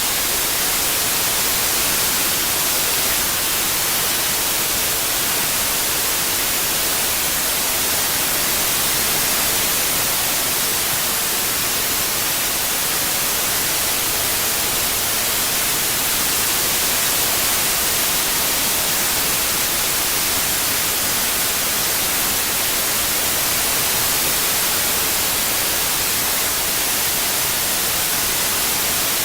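Steady synthetic white noise: an even, unbroken hiss, strongest in the high frequencies.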